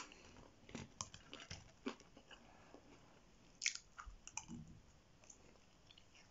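Close-miked mouth sounds of chewing chicken massaman curry and fries: soft wet smacks and clicks, the loudest about four seconds in, with a spoon going into the mouth. It grows quieter near the end.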